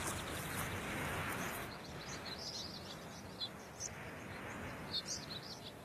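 Small birds chirping in short, high calls over a soft rushing noise that fades over the first two seconds.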